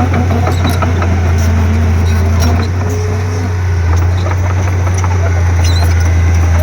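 Komatsu D31P crawler bulldozer's diesel engine running steadily under load, a strong low hum, with wavering squeaks and scattered clicks over it.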